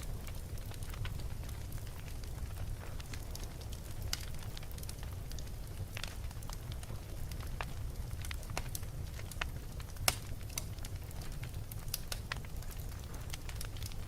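Wood fire burning in a fireplace: a steady low rumble with scattered sharp crackles and pops, one louder pop about ten seconds in.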